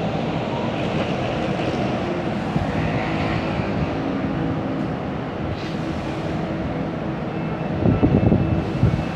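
Steady rumble and hum inside a Siemens Inspiro metro carriage, with a cluster of louder low thumps about eight seconds in.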